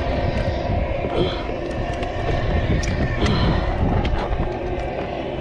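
Steady low rumble with scattered knocks and clicks as a Hobie MirageDrive pedal drive is worked into its well in the kayak hull; the drive is sticking as it locks in.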